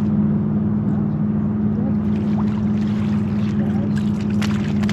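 Boat motor running steadily, a constant low hum, with a couple of sharp clicks near the end.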